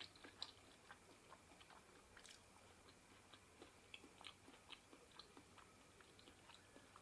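A person chewing close to the microphone, quietly, with many small irregular mouth clicks and smacks.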